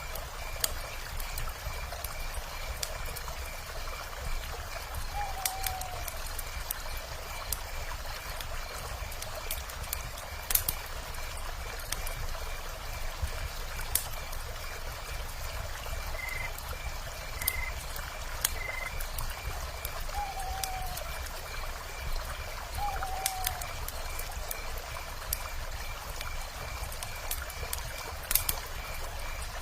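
Wood fire crackling with scattered sharp pops over the steady rush of a flowing river, with a fast, even, high-pitched trill throughout. An owl gives three short falling calls, one about five seconds in and two near twenty seconds in.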